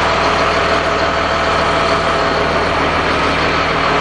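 Heavy diesel engine of a school bus, a Cat C7, idling steadily at close range.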